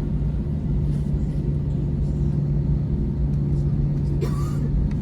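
Steady airliner cabin noise from inside the aircraft: a constant rumble with a low, unchanging hum from the engines and cabin air system.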